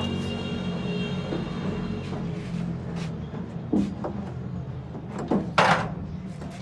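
Suzuki Mehran's three-cylinder engine idling steadily in the workshop, the car in for a sound problem and tappet setting. A couple of sharp knocks land past the halfway point, followed by a louder, rougher clatter of about half a second near the end.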